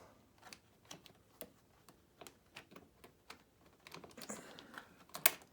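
Scattered light clicks and taps of a table saw's anti-kickback pawl assembly being worked onto its mounting pins by hand, with a sharper click near the end as it seats in place.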